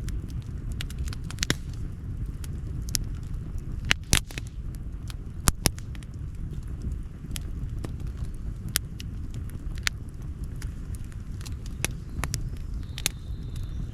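Outdoor wood campfire crackling: irregular sharp pops and snaps, the loudest a pair about four seconds in and another about five and a half seconds in, over a steady low rush.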